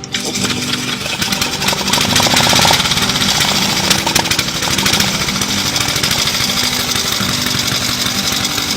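1910 Harley-Davidson belt-drive single-cylinder engine, just pedal-started, running with rapid, even firing pulses; it gets louder over the first two seconds, then runs steadily.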